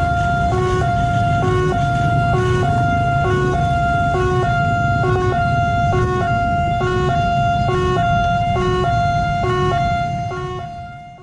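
Railway level-crossing warning alarm sounding a repeating two-tone electronic signal, low and high tones alternating a little under once a second, over a steady low rumble of traffic or engines. It fades out near the end.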